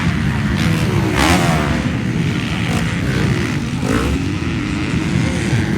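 Several motocross motorcycle engines racing, revving up and down in overlapping pitches, with one loud engine note sweeping down in pitch about a second in as a bike passes.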